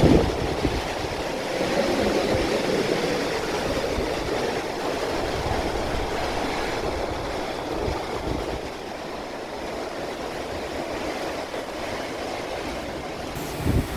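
Typhoon wind and rain: a steady rush of driving rain and strong gusting wind that rumbles on the microphone, easing a little in the second half.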